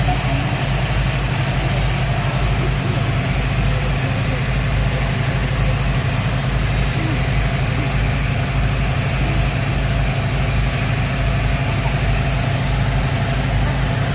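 Speed boat engines running steadily with a constant low drone.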